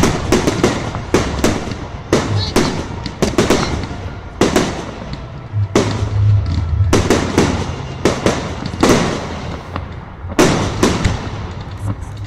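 Fireworks going off in rapid succession, a steady run of sharp bangs and crackles several times a second, with echoing tails.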